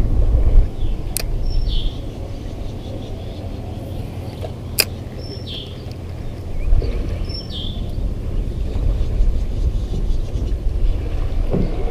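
A bird chirping three times, short falling calls, over a steady low rumble, with two sharp clicks, one about a second in and one near the middle.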